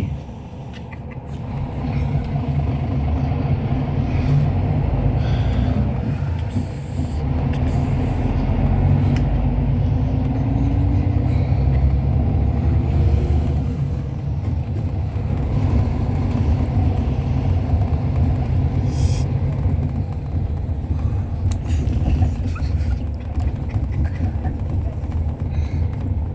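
Cabin ride noise of a Hyundai Universe Space Luxury coach under way: a steady low engine and road rumble that grows louder about two seconds in, with a faint rising engine tone around ten seconds in.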